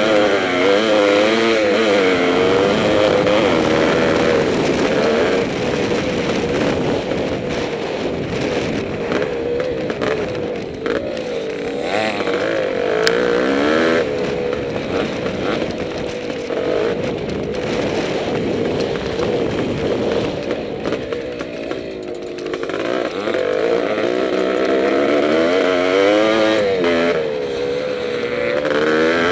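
Yamaha IT490's two-stroke single-cylinder engine, heard from onboard, racing over a motocross track: the pitch rises and falls over and over with the rider working the throttle and gears, easing off briefly about a third and again about two-thirds of the way through.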